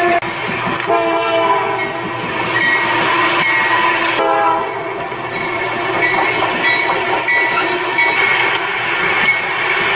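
CSX freight diesel locomotives passing with the rumble and clatter of the train, their air horns sounding in chords of several tones, one blast starting about a second in and another just after four seconds.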